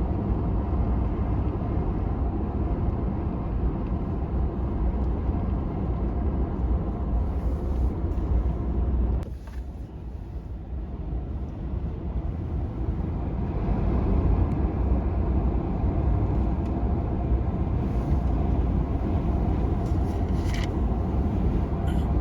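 Vehicle running along a road, heard from inside: a steady low engine and road rumble that drops off about nine seconds in and builds back up a few seconds later.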